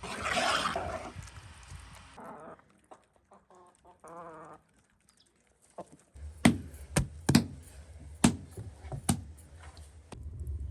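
A hen clucking in a short call, followed by a run of about seven sharp knocks over a low hum in the second half.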